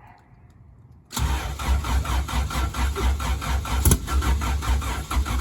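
Honda B18C1 four-cylinder engine, freshly built and turbocharged, cranking over on the starter motor on its first start attempt. The cranking starts suddenly about a second in, with an even rhythm of about five pulses a second.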